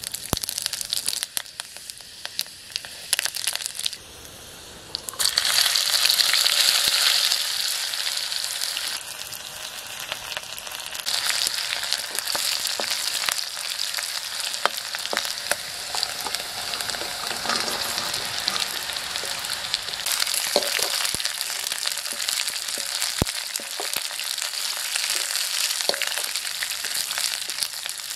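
Chopped onion and garlic frying in hot oil in a black iron wok, a steady sizzle that flares up loudly about five seconds in as food hits the oil and again about eleven seconds in. A steel ladle stirs and scrapes through it, with small pops and crackles.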